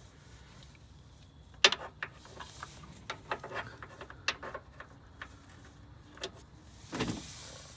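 Metal hand tools clicking and clanking against the serpentine belt tensioner and engine parts as it is worked by hand. A sharp clank comes about a second and a half in, then scattered lighter clicks, and a short rough scrape near the end.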